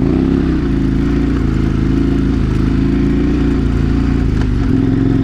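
KTM 1090 Adventure R's V-twin engine running while riding at a steady pace, its pitch easing slightly just after the start and shifting again about four and a half seconds in.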